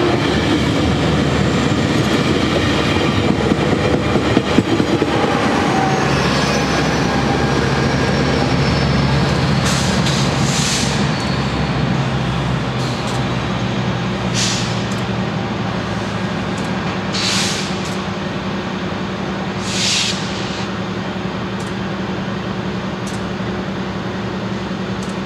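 Metrolink bilevel commuter train rolling past the platform with wheel clatter for about the first six seconds. After that comes a steady low hum of diesel locomotives standing in the yard, broken by several short hisses.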